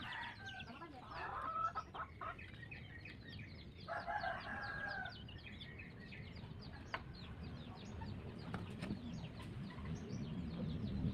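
Chickens clucking and calling, with one longer held call about four seconds in. A low rumble builds near the end.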